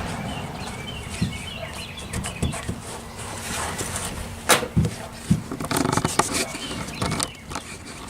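Hand tools and small carburetor parts being handled on a workbench: sharp clicks and clinks, mostly in the second half. Birds chirp in the background during the first few seconds.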